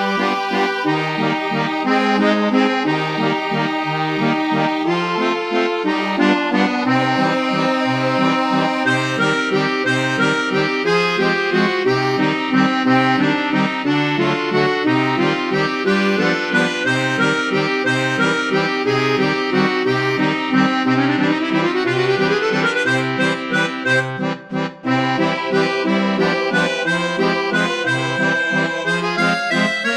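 Accordion playing a waltz, with bass notes marking the beat under a busy melody. About three quarters of the way through, a quick upward run climbs, followed by a brief break in the sound.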